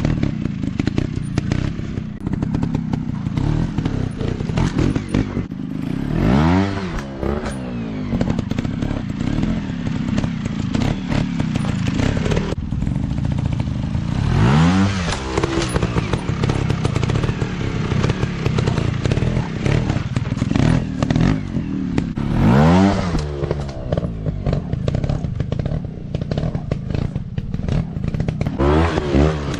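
Dirt bike engines running hard with a rapid crackling exhaust, the engine note sweeping up and down in pitch about four times as the throttle is worked.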